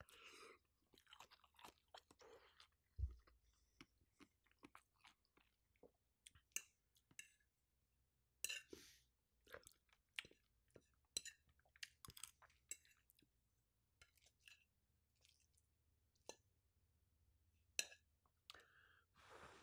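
Faint, close-miked chewing of food: soft wet mouth clicks and smacks scattered irregularly. One low thump about three seconds in.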